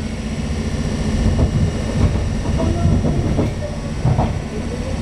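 485-series electric train running at speed, heard from inside its rear cab: a steady low rumble from the wheels on the rails, with a few clacks as the wheels cross joints.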